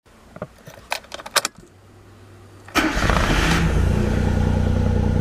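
A few clicks of the ignition key and a brief low hum, then about three seconds in the Suzuki Cappuccino's small three-cylinder turbo engine cranks, catches and settles into a steady idle.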